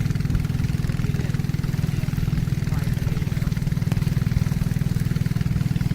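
Boat engine running steadily at cruising speed, a constant low drone with a fast, even pulse.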